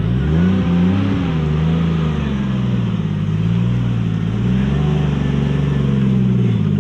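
Car engine running close by, its note climbing in the first second and then rising and falling gently as the throttle is worked, as in slow manoeuvring or light revving.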